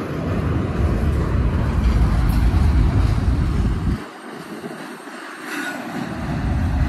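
Freight train of autorack cars rolling past close by, a steady noisy rush from the wheels on the rails. A heavy low rumble, likely wind buffeting the microphone, drops away abruptly about four seconds in and returns near the end.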